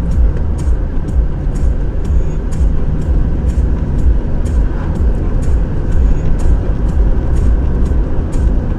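Steady, heavy low rumble of a moving car's engine and road noise, with a light, sharp tick about twice a second.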